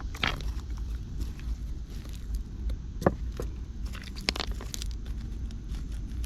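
Digging in dry creek-bed soil and gravel to work loose a buried metal piece: scattered short scrapes and clicks, the sharpest about three seconds in and a cluster of them around four seconds in, over a steady low rumble.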